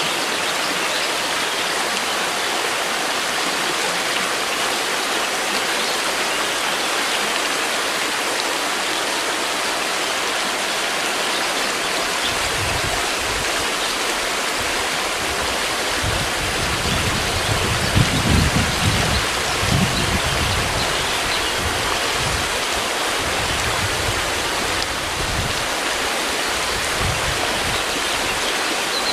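River water rushing steadily over rocks. From about twelve seconds in, low rumbles come and go beneath it, strongest a little past the middle.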